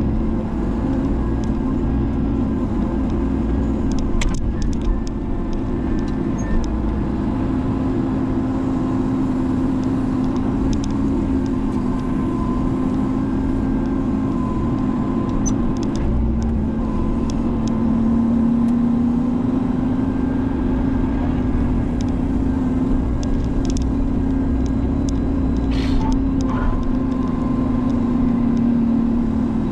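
Menzi Muck spider excavator's diesel engine running steadily, its pitch wavering slightly under load, with a few scattered sharp clicks and knocks.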